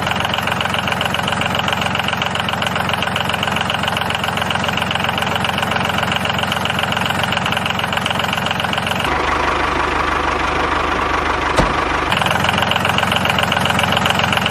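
An engine idling steadily with a fast, even pulse; about nine seconds in its tone turns deeper for roughly three seconds, then goes back.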